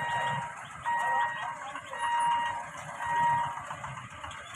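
An electronic warning beeper sounding a single high tone about once a second, each beep about half a second long, over the low rumble of idling vehicle engines.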